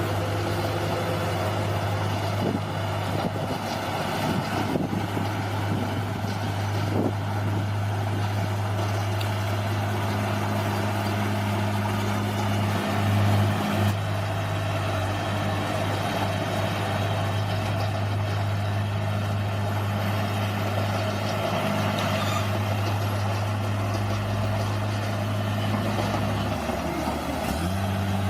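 Bulldozer's diesel engine running steadily under work, its pitch dipping for a couple of seconds near the end before picking back up.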